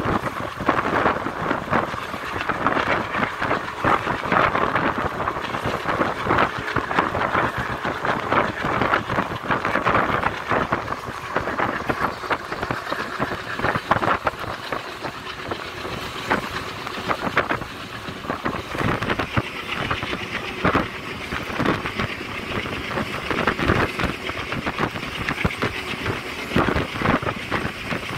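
Passenger train running, heard from on board: a continuous, uneven rattle and clatter over a steady rushing noise.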